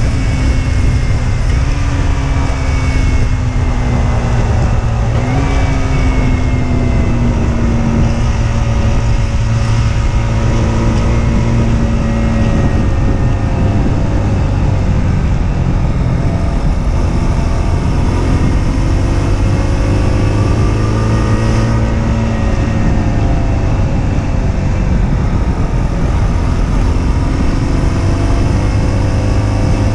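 Husqvarna Svartpilen 125's single-cylinder engine running under way. Its pitch sinks slowly with two short jumps up in the first few seconds, then rises and falls again later, over heavy wind rumble on the microphone.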